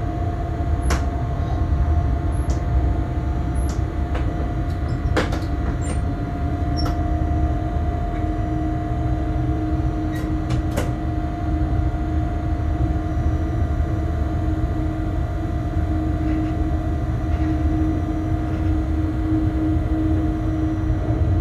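Bombardier Traxx BR186 electric locomotive running on the line, heard inside the driver's cab: a steady low rumble with a held electrical hum, one tone of which steps up slightly about seven seconds in. A few short sharp clicks and high chirps come in the first ten seconds.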